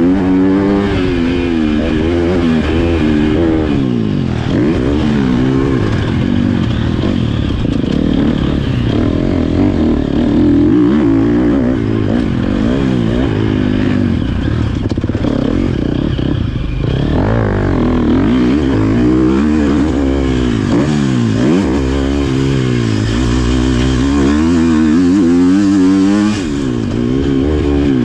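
Motocross dirt bike engine being ridden hard, its pitch climbing and falling again and again as the throttle is opened and shut, with a brief dip about 26 seconds in.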